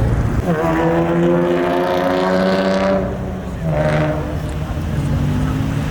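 A vehicle engine revs up about half a second in and holds high for a couple of seconds before dropping off. A second, shorter rev follows, and then it settles back to a lower steady note.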